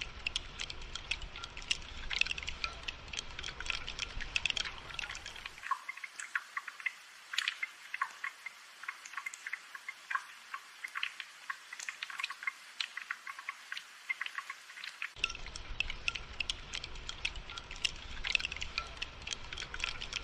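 Rain falling, a dense run of sharp drop ticks and drips over a soft hiss. A low rumble underneath drops out about five seconds in and returns about fifteen seconds in.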